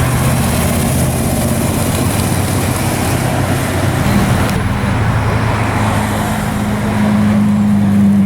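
A car engine running, its steady low note growing louder about seven seconds in.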